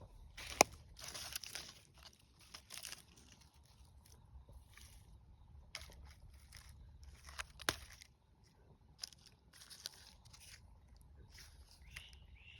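Footsteps crunching irregularly over dry ground, with a sharp click about half a second in and another near eight seconds.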